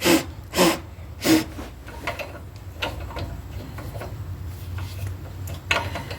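Hand tools being handled: three sharp clacks in the first second and a half, then lighter clicks and rattles of a socket and wrench being fitted.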